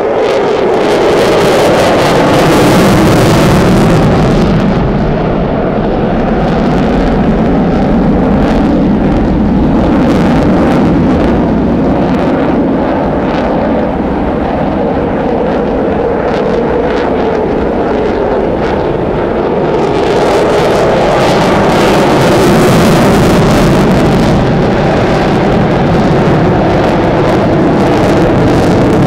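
Jet fighter engine noise, loud and continuous, with its pitch drifting slowly as the aircraft moves across the sky.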